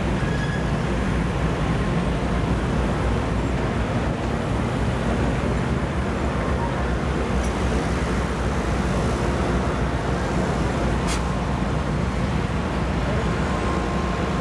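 Passenger train cars rolling slowly past on the rails: a steady low rumble of wheels and trucks, with one brief sharp click about eleven seconds in.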